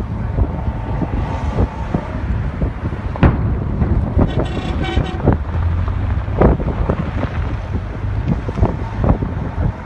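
Wind buffeting the microphone over a steady low rumble, with several sharp thumps and a short horn-like tone about four and a half seconds in.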